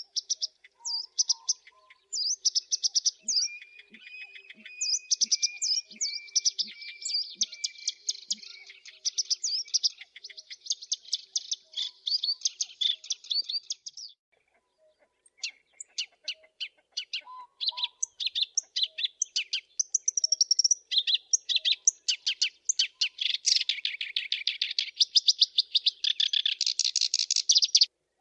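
Black-browed reed warbler singing: long runs of rapid, scratchy chattering notes, high-pitched, broken by a pause of a second or so about halfway through.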